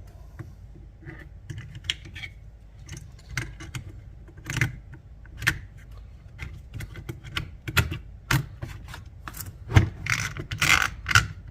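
Irregular plastic clicks, knocks and rubbing from hands working a small cordless chainsaw's chain-tensioning parts. The knocks come closer together and louder near the end.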